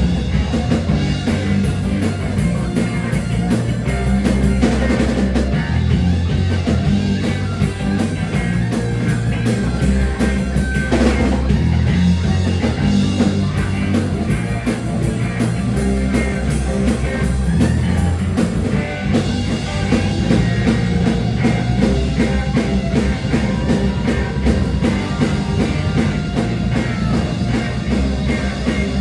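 Rock music with electric guitar and a drum kit, playing steadily and loudly.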